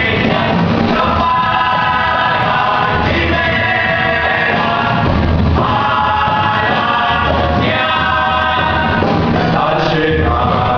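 Music: a chorus of voices singing together with instrumental accompaniment and recurring low notes underneath.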